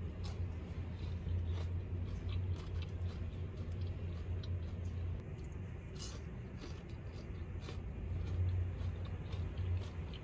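Close-up chewing of crispy hash browns, with small irregular mouth clicks and lip-smacking as fingers are licked. A steady low hum runs underneath.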